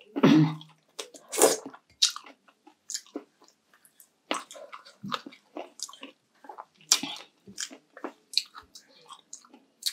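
Close-miked wet chewing and lip smacking of food, a scatter of irregular clicks, smacks and slurps.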